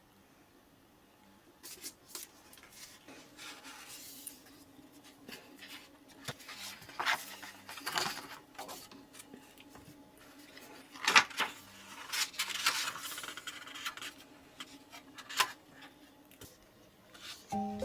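Small handling sounds in a room: scattered light knocks and clinks and several short rubbing or scraping strokes, over a faint steady hum.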